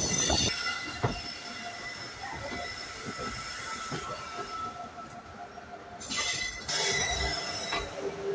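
Express train coaches running on the rails, the steel wheels giving a thin steady squeal, with a few knocks. A short burst of hiss comes about six seconds in.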